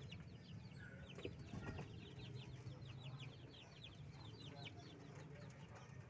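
Faint, rapid chirping of small birds: many short falling chirps, several a second, over a steady low hum.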